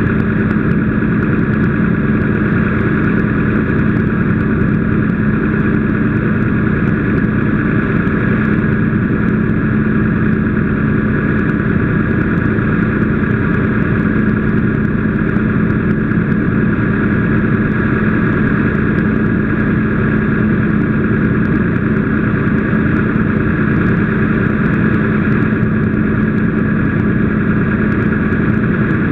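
An engine running steadily at constant speed, with an even hum and no change in pitch or level.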